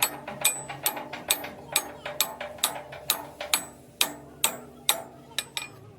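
Hammer striking steel in an even rhythm, about two blows a second with a short metallic ring after each, stopping about five and a half seconds in.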